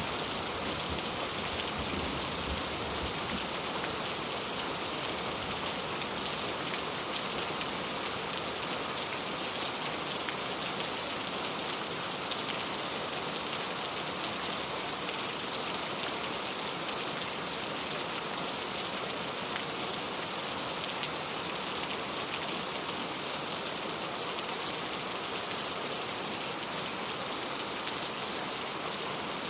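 Steady rainfall: an even hiss of drops pattering on a surface, with fine individual drop ticks throughout. A low thunder rumble dies away in the first few seconds.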